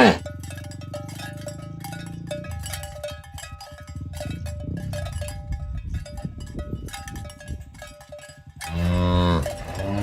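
Cowbells on a walking herd of cattle clinking irregularly, over a low steady hum in the first couple of seconds. Near the end a cow lets out a loud moo.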